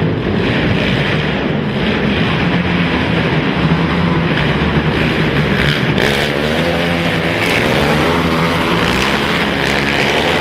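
Racing ATV engines running hard, the revs rising and falling as the quads accelerate and back off. From about six seconds in, one engine's revving rises and falls more plainly over the others.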